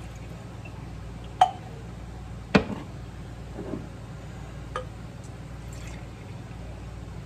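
Iced coffee mix poured from a container into glasses, with liquid pouring and dripping and three sharp clinks of glass, the middle one loudest, over a steady low hum.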